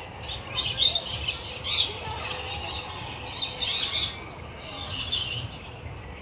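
Birds calling, with loud high calls coming in short bursts: strongest about a second in, near two seconds and near four seconds.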